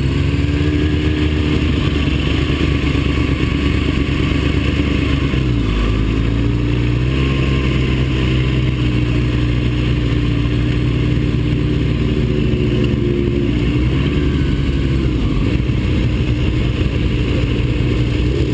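Engine of a vehicle lapping a race track, heard from an onboard camera at speed, over a steady rush of wind. The engine note holds high and drops briefly twice, about five and a half and thirteen seconds in, before pulling back up.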